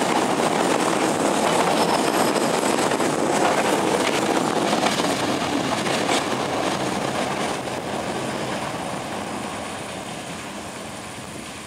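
Vietnamese North–South passenger train's carriages rolling on the rails, a steady rumble of wheels on track that fades gradually over the second half as the train pulls away.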